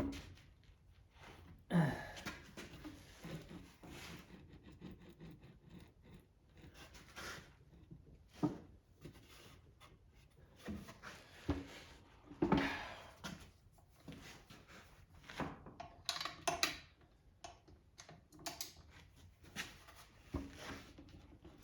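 Hand tools and metal engine parts being handled during small-engine disassembly: scattered clinks, scrapes and knocks at an uneven pace, the loudest knocks about two seconds in and near the middle.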